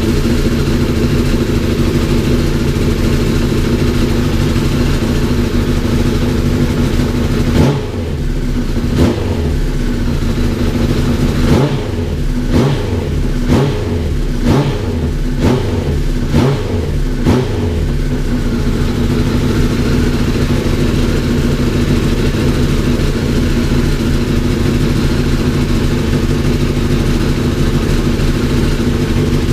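Honda CBR1000RR's freshly rebuilt inline-four engine running: idling steadily, then revved in a string of about nine quick throttle blips over roughly ten seconds, before settling back to a steady idle.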